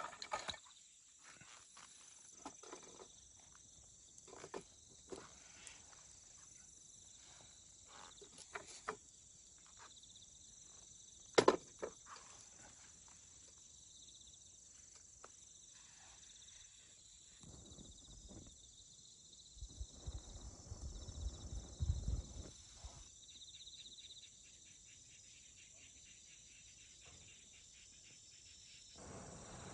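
Insects chirping steadily, with scattered clicks and a sharp snap about eleven seconds in. A low rumble comes and goes around twenty seconds in.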